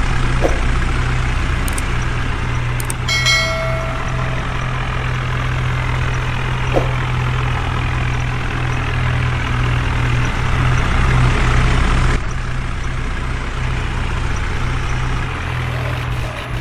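Heavy diesel engine running steadily with a deep hum, and a short horn toot about three seconds in.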